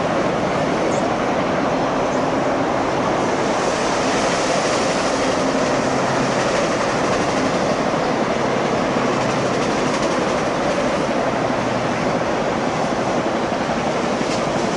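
Freight train of autorack cars rolling past, a steady noise of steel wheels on rail.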